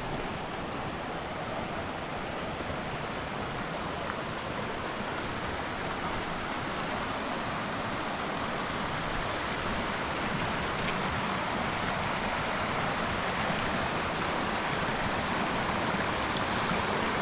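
Steady rush of a stream running over rocks between pools, growing gradually louder.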